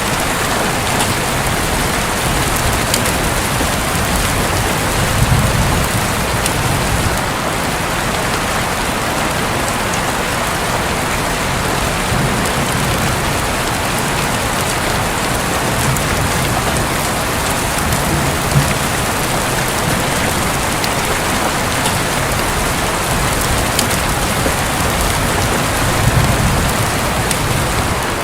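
Steady heavy rain pattering on a roof, with a few low rumbles of distant thunder that swell and fade.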